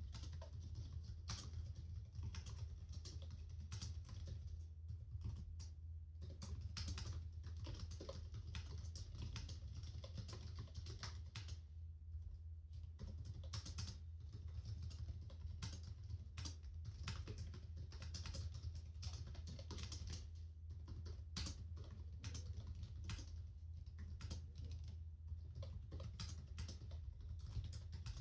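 Steady typing on a laptop keyboard: rapid, irregular key clicks with a brief lull about twelve seconds in, over a steady low hum.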